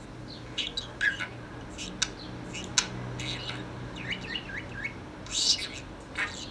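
Small pet parrot chattering: quick chirps, warbling notes and short squawks in irregular bursts, with a louder, harsher call about five seconds in.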